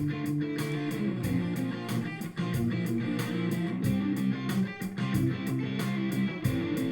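Electric guitar loops playing back from a NUX Dual Loop Stereo looper pedal: a chord part and a riff recorded on two tracks in parallel, layered over a steady beat.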